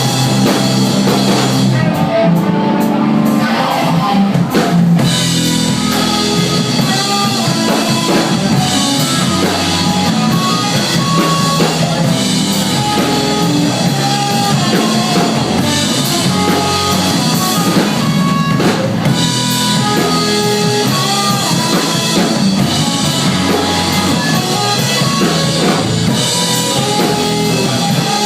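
A live rock band playing a passage without lyrics: drum kit and guitar.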